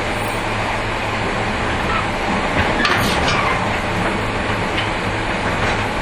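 JR 115-series electric train under way, heard inside between two coupled motor cars: steady motor hum over loud wheel-on-rail rolling noise, with a brief squeal and clatter about three seconds in.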